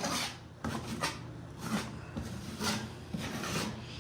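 Drywall knife scraping and smoothing wet setting-type joint compound over paper tape on a wall patch, in a run of short strokes about one to two a second.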